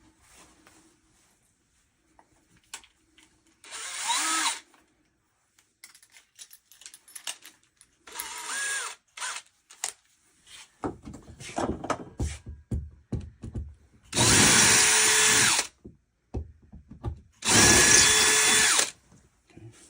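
Power drill boring holes in the wall for anchors: two short bursts with the motor pitch rising as it spins up, some clicks and knocks, then two longer, louder runs of about two seconds each near the end.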